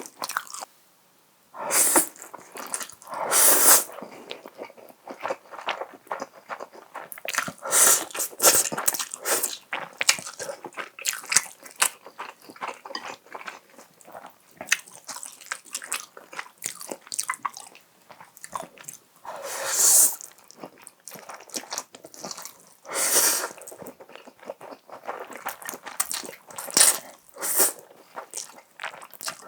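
Close-miked mukbang eating: crisp crunching bites and chewing, as of fried chicken, in a run of sharp cracks with several louder, longer crunches along the way.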